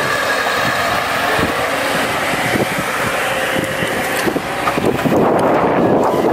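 Car engine running steadily as a Lada Niva tows a stranded car on a strap, with a steady mechanical noise that grows a little louder near the end.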